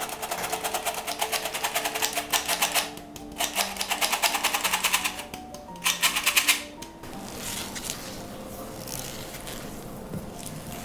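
Rapid, even clicking of a utensil beating a mixture against a bowl, in three runs, stopping about two-thirds of the way through and giving way to a softer hiss. Soft background music plays throughout.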